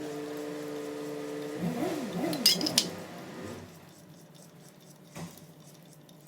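Manual lathe running with a steady hum that wavers up and down in pitch and dies away about three and a half seconds in, as the machine stops. Sharp metallic clinks of steel tools come near the middle, and a single knock later on.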